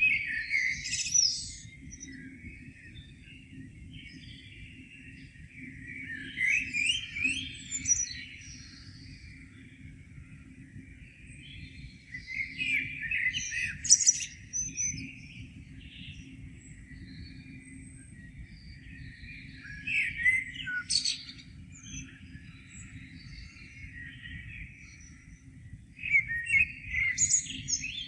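A songbird sings a loud phrase of about two seconds roughly every six seconds, five times in all, with fainter chirps in between, over a steady low rumble.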